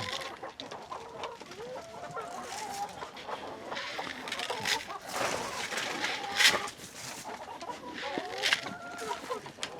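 A flock of chickens clucking and chattering continuously while they gather for scratch grain, with a few short sharp sounds, the loudest about six and a half seconds in.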